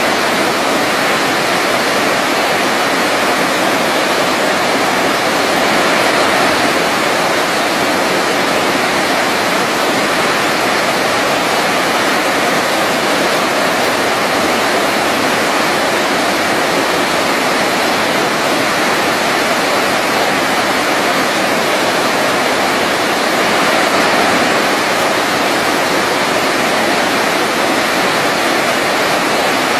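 Waterfall rushing in a steady, continuous roar of falling water, swelling slightly twice.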